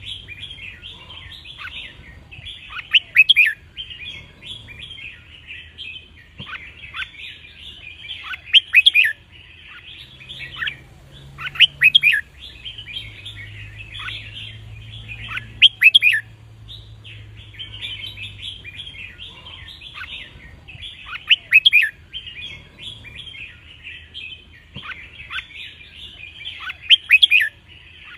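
Red-whiskered bulbuls singing: a continuous run of chattering twitters, with a loud, ringing song phrase breaking through every few seconds.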